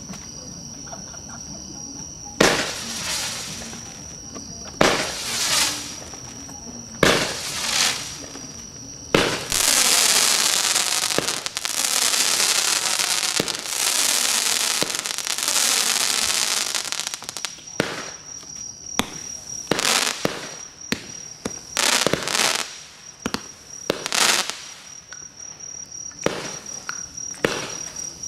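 200-gram consumer firework cake firing. First come four separate shots about two seconds apart, each a sharp report that dies away over about a second. Then comes about eight seconds of rapid, nearly continuous firing, then more shots at uneven intervals. A steady high insect-like trill is heard in the quieter stretches.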